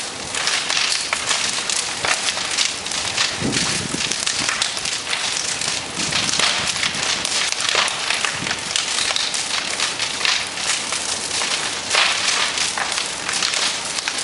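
Bonfire burning and crackling, a dense run of sharp pops and snaps.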